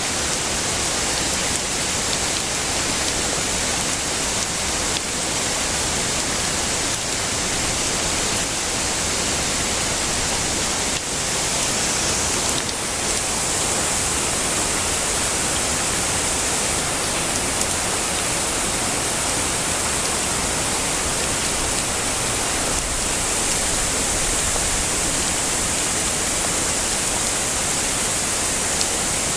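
Heavy rain falling as a steady, even hiss, brightest in the high treble.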